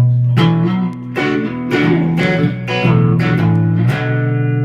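Guitar playing a blues riff: notes and chords picked with sharp attacks, each left to ring into the next.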